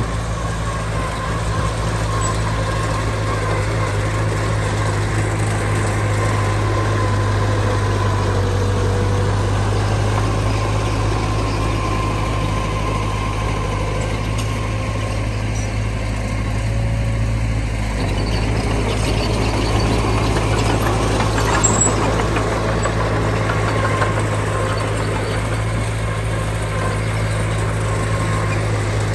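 Heavy diesel engine of earthmoving machinery running steadily, with a few light clanks about two-thirds of the way through.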